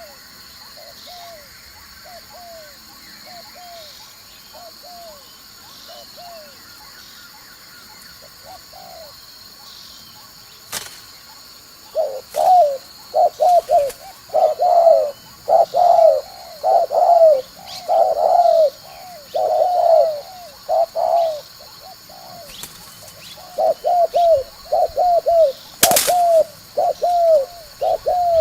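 Spotted dove (chim cu gáy) decoy cooing in short repeated phrases: faint at first, then loud and rapid from about twelve seconds in, the provoking call used to lure wild doves to a trap. A couple of sharp clicks break in, one near the end.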